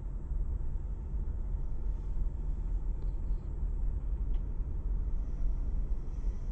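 A steady low rumble, with a faint tick about three seconds in and another a little after four seconds.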